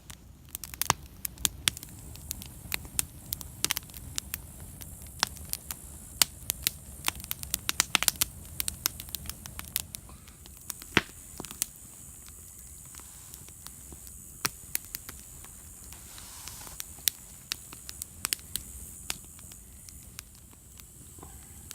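Wood bonfire crackling and popping: many irregular sharp pops, dense in the first half and thinning out later, over a low steady rumble.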